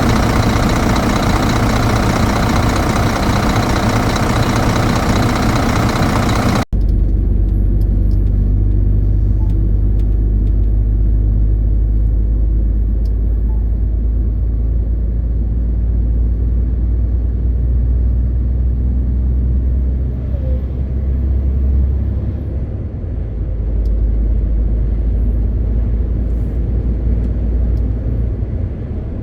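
Diesel truck engine drone heard inside the cab of a MAN TGX 18.520, steady and deep, with a faint high whine that rises and fades twice and a brief dip in level partway through. It is preceded by about seven seconds of a louder, even hiss that cuts off suddenly.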